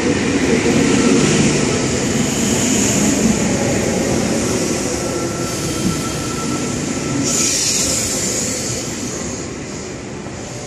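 Double-deck electric passenger train rolling past along the platform, a steady rumble of wheels and running gear that gradually fades, with a short hiss about seven seconds in.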